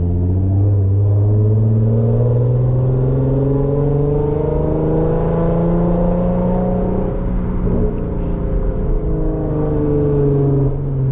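Infiniti Q50's engine and exhaust heard from inside the car under light acceleration. The pitch climbs slowly, eases back, dips briefly about eight seconds in, then rises and falls again.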